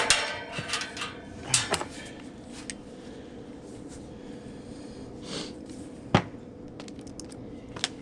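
Scattered clicks and knocks of metal parts and tools being handled on a condenser fan motor and its mount. There is a cluster of clicks at the start, a few more about a second and a half in, and one sharp knock about six seconds in, all over a faint steady hum.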